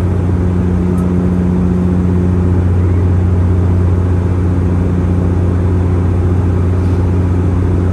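Inside the cabin of a Bombardier Q400 turboprop in climb: the steady drone of the engines and propellers, a loud, even hum with a strong low propeller tone.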